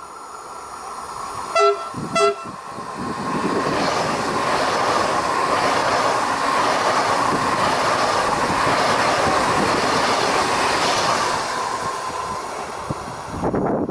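Two short horn blasts from a PKP Intercity ED250 Pendolino high-speed electric train, then the train passing close at speed: a loud rush of wheels and air that builds, holds for several seconds and fades as it runs away. A loud low buffeting burst comes near the end.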